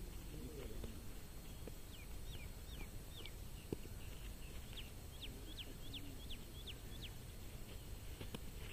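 A bird calling in two runs of short, quick, falling chirps, about three a second, faint over a low outdoor rumble. One sharp tap sounds in the gap between the runs.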